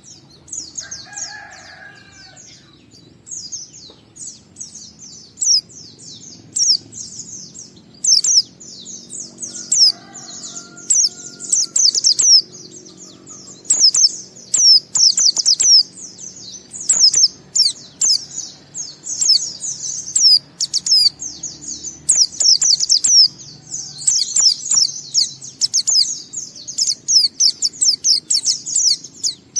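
White-eye (pleci) singing its long continuous 'ngalas' song: a fast, high-pitched stream of short chirping and warbling notes, sparse at first and near-continuous from about eight seconds in.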